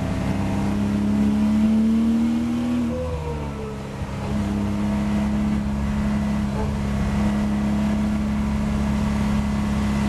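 Porsche Boxster race car's flat-six engine heard from inside the cockpit, running under throttle. Its note rises slightly, then drops and quietens briefly around three to four seconds in. After that it holds a steady pitch.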